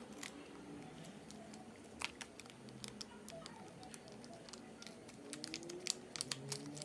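A small sample packet of eyeshadow primer being handled and torn open: faint, scattered crinkles and sharp clicks.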